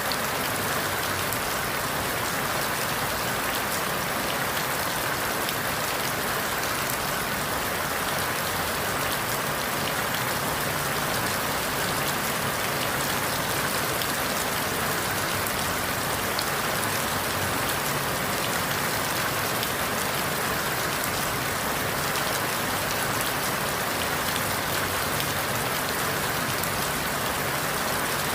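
Steady rain falling through forest leaves, an even hiss with fine, close drop ticks and no change in strength.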